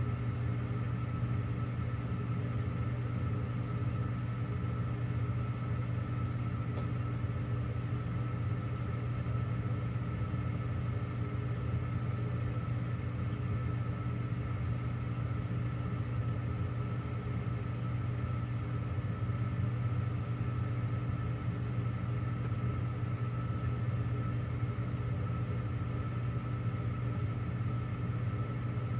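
Gas furnace draft inducer motor running steadily, a low hum with a thin higher whine, during the pre-purge before the burners light.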